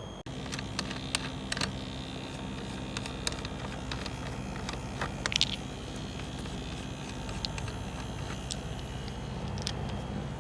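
A steady low machine hum with scattered light clicks and knocks, a small cluster of them about five seconds in.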